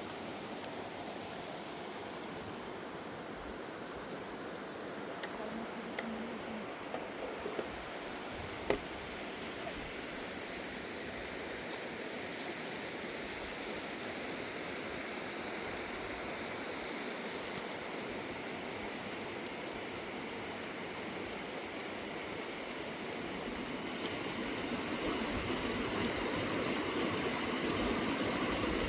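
A cricket chirping steadily, about two short high chirps a second, over a steady rushing noise from the river. Near the end a louder rhythmic noise rises and the chirping grows louder.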